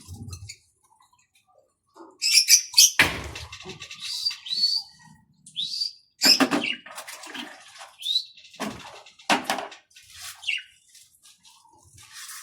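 Small birds chirping and squawking in short bursts, some calls sliding quickly in pitch, mixed with several sudden splashing or wing-fluttering bursts as they bathe in water.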